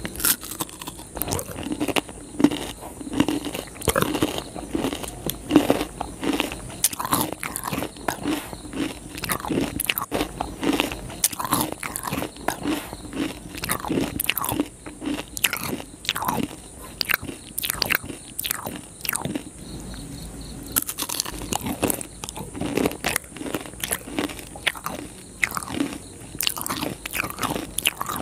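Close-miked eating of crisp, syrup-soaked jalebi: bites with crunching and steady chewing, made up of many small clicks and smacks. It eases off briefly about two-thirds of the way through.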